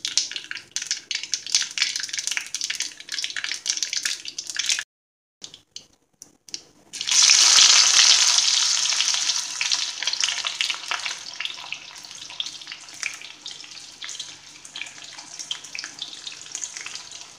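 Mustard seeds popping and crackling in hot coconut oil in an iron kadai. After a short break, sliced onions hit the oil at about seven seconds, setting off a loud sizzle that slowly dies down.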